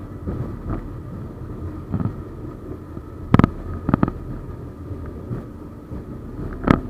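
71-931M Vityaz-M tram running along the track: a steady rolling rumble with a faint steady whine, broken by a handful of sharp knocks of the wheels on the track, the loudest about halfway through and near the end.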